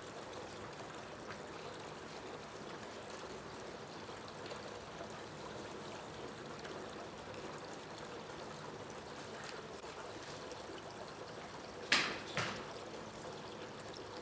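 Steady sound of running or trickling water, with two sharp knocks close together near the end.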